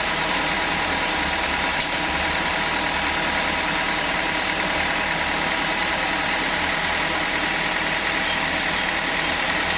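Sawmill saw running steadily, a dense mechanical drone with a steady high whine over it, and one brief click about two seconds in.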